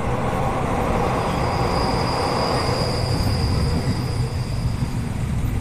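Passenger train running along the track, heard from inside a carriage through an open window: a steady, dense rumble of wheels on rails and rushing air. A thin, high whine sounds for a few seconds in the middle.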